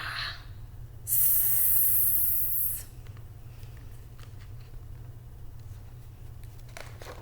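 A woman imitating a snake's hiss, one loud breathy hiss lasting about a second and a half, followed by a few faint ticks.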